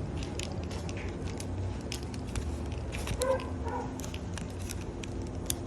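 Steady low machine hum with scattered light clicks and small handling noises.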